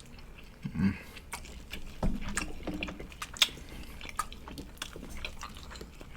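Close-up chewing and biting of barbecue ribs: a scattering of sharp mouth clicks and smacks, the sharpest a little past halfway, with two short low sounds about one and two seconds in.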